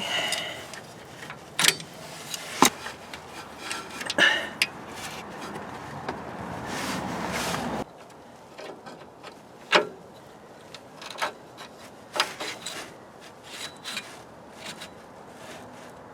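Hands working a power steering hose and its plastic fittings into place: scattered clicks, knocks and rubbing. A denser stretch of scraping and rubbing in the middle cuts off suddenly about eight seconds in.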